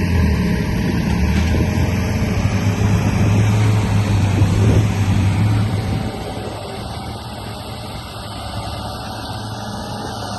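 Remote-control bulldozer running, with a steady engine-like hum that eases off about six seconds in.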